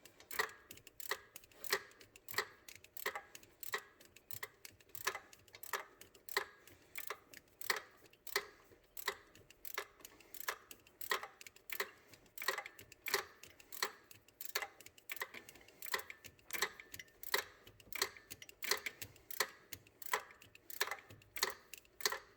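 Socket ratchet on an extension clicking in steady, repeated strokes, about two clicks a second, as a screw is turned. The screw is spinning without catching its threads.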